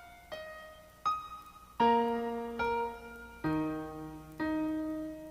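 Slow solo piano melody, single notes struck about once a second, each ringing and fading before the next.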